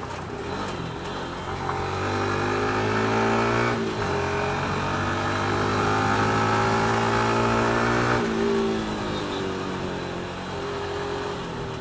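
Suzuki Hayabusa's inline-four engine pulling under acceleration. Its pitch rises from about two seconds in, dips briefly about four seconds in as it shifts up, then runs high and loud until the throttle closes about eight seconds in. It then settles to a lower, steady run.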